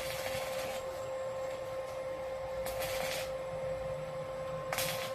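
Steady electrical hum with three short bursts of hissing noise: one at the start, one about three seconds in, and one near the end.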